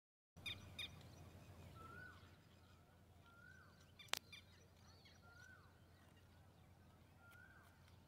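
Faint bird calls: a short slurred note that rises and then drops, repeated about every two seconds, after two sharp high chirps at the start. A single sharp click about four seconds in is the loudest moment, over a low rumble of wind or background noise.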